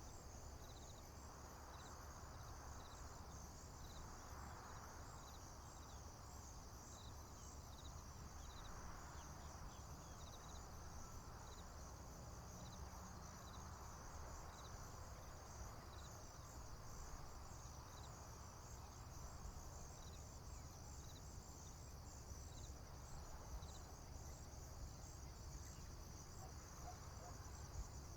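Crickets and other insects chirping in a faint, steady high trill, with one slower chirp repeating about once a second. Beneath it a soft rushing swells and fades over a low steady rumble.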